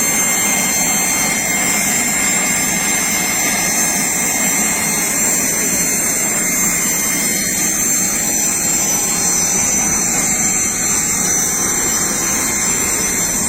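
Aircraft turbine engine running steadily: a constant roar with a high, even whine over it.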